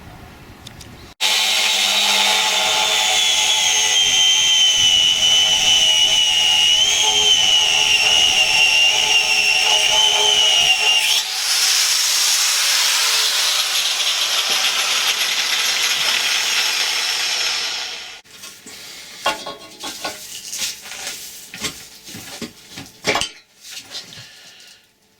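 A power tool cutting a piece of steel angle iron: a loud steady run with a high whine until about eleven seconds in, then a harsher hiss, stopping abruptly about eighteen seconds in. Scattered knocks and clicks of metal being handled follow.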